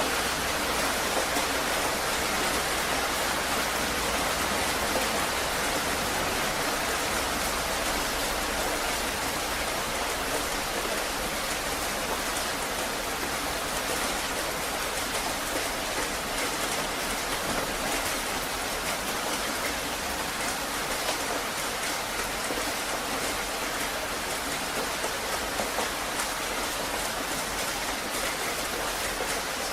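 Heavy rain falling steadily, an even hiss of many drops striking a surface.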